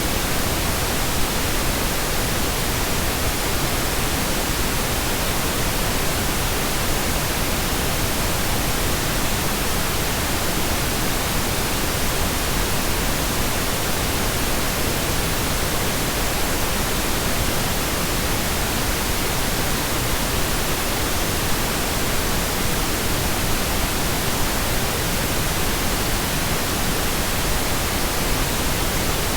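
Steady pink noise: an even, unchanging hiss across the whole range of pitch, fuller in the low end than white noise.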